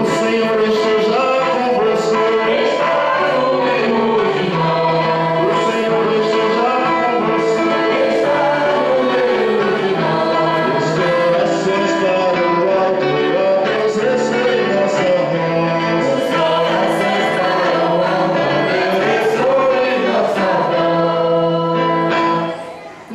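Group of voices singing a church hymn over a steady instrumental accompaniment, the music dipping briefly near the end.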